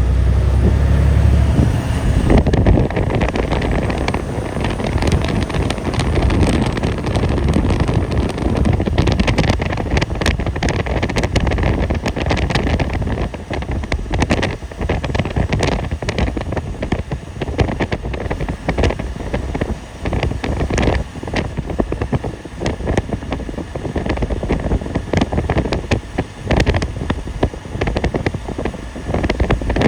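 Wind buffeting the microphone in a snowstorm, with irregular crackling gusts throughout. A heavy low rumble fills the first two seconds.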